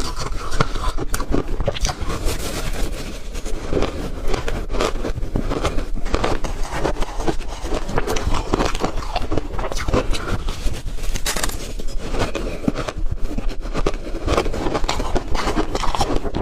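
Ice being bitten and chewed close to the microphone: a dense, unbroken run of crunches and crackles.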